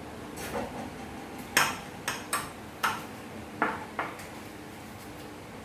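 Eating utensils clinking against plates and bowls as a meal begins: several short, sharp clinks at irregular intervals, most of them in the first four seconds.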